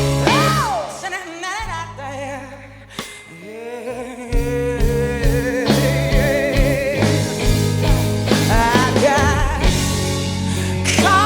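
A live blues-rock performance: a female singer sings with strong vibrato over a rock band. The band thins out briefly about two to four seconds in, then comes back fuller with steady drums under the voice.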